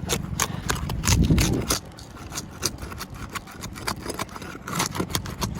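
Asphalt roof shingles being unstuck, their sealant bond broken apart, giving irregular short clicks, crackles and scrapes. A brief low rumble comes about a second in.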